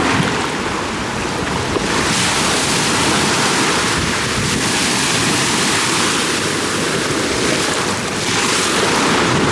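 Ocean surf washing and breaking, with wind buffeting the microphone. The rush swells about two seconds in and again near the end.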